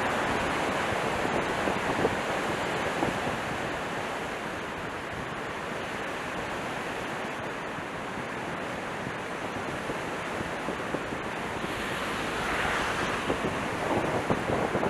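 Strong gusting wind blowing across the microphone, a steady rushing that swells near the end, with a few faint ticks.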